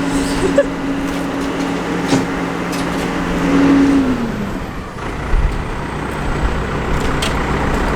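Tractor engine running steadily, its pitch dropping about four seconds in as it throttles down to a lower rumble.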